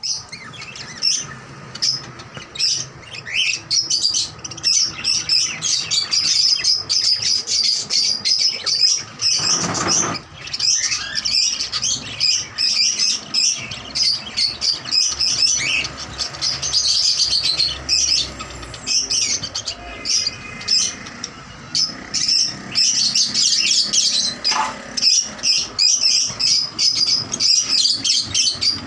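Caged birds chirping busily: many short, high chirps overlapping without a break.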